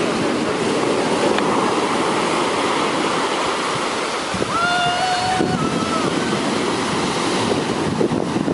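Heavy surf breaking and washing up a beach, a steady rushing noise. About halfway through, a short high call carries for about a second over the surf, then a fainter one follows.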